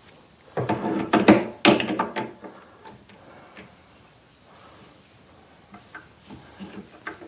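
Metal clanks and knocks from a lathe chuck and the pipe held in it as the workpiece is reset in the jaws. There is a quick run of loud knocks with some ringing between about half a second and two and a half seconds in, then a few light clicks.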